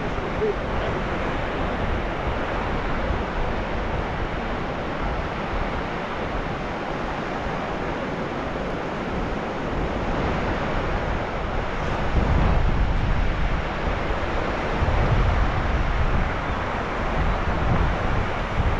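Sea waves washing in steadily, with wind buffeting the microphone in low rumbles that grow stronger in the second half.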